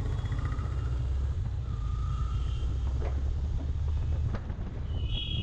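Riding noise on a Yamaha FZ-X motorcycle: a steady low rumble of wind buffeting the microphone over the running bike.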